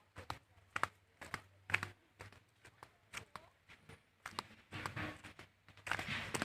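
Footsteps walking on a steep path, sharp irregular steps roughly twice a second, with a short rustling noise near the end.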